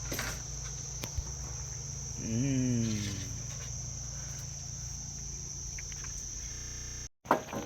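A steady, high-pitched chorus of insects such as crickets, running without a break. About two and a half seconds in, a short pitched sound falls in pitch over it.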